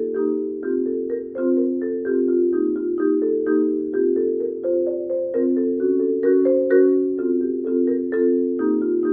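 Mallet percussion music, such as a marimba: quick, evenly struck notes in several overlapping lines, several notes a second, with no voice.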